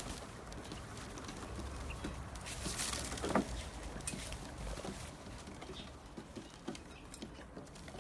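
Birds in an aviary: scattered scratching, pattering and rustling, with one short low call about three seconds in.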